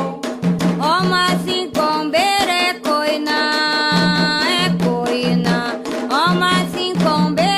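Candomblé chant for Xangô: a sung line that slides up into held notes, over steady drumming and percussion.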